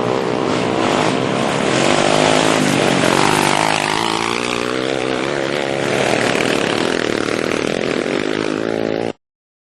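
Pit bike engine running with its pitch rising and falling as the throttle is worked, then cutting off suddenly about nine seconds in.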